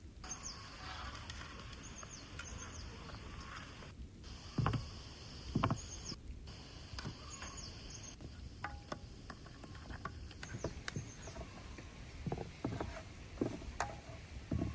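Short, high, falling chirps repeating every second or so, with two dull knocks about five seconds in and scattered light clicks and taps near the end.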